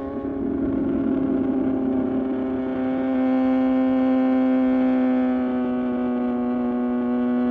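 Suzuki GSX-R750's inline-four engine running under way at a steady pitch and speed. There is a short dip in level right at the start, then the note holds even.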